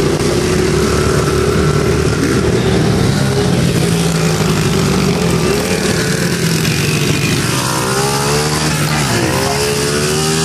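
Small mini dirt bike engines running and revving, their pitch sweeping up and down in the last few seconds.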